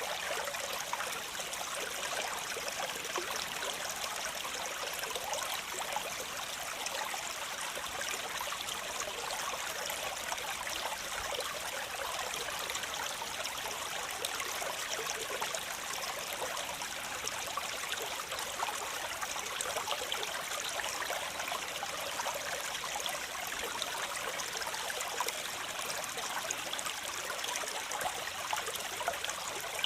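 Waterfall: water falling and splashing in a steady, unbroken hiss, bright and with little deep rumble.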